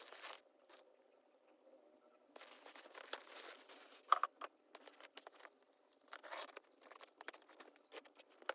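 Faint crinkling and tearing of parcel packaging being opened and handled, coming and going irregularly with a few sharp clicks about four seconds in, after a quiet first couple of seconds.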